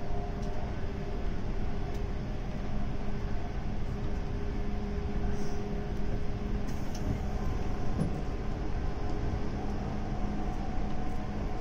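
JNR Class 185 electric multiple unit running: a steady hum over the rumble of wheels on rail, with a few scattered clicks.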